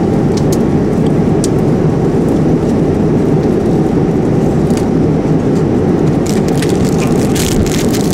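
Steady low rumble of an airliner cabin in flight, with a few light clicks and rattles, more of them near the end.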